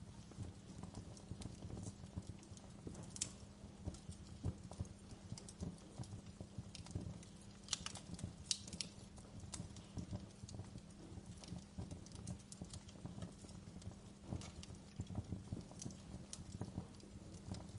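Wood fire crackling in a fireplace: irregular pops and snaps, a few sharper ones, over a steady low rumble of burning.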